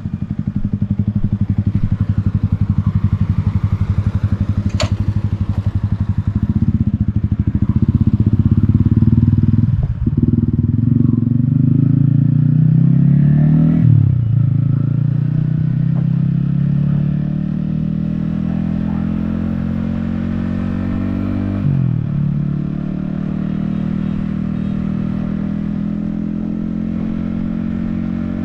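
Yamaha XSR155's 155cc single-cylinder engine pulling the motorcycle up through the gears: the engine note climbs steadily, then drops sharply at each upshift, about 10, 14 and 22 seconds in and again near the end. A single sharp click comes about 5 seconds in.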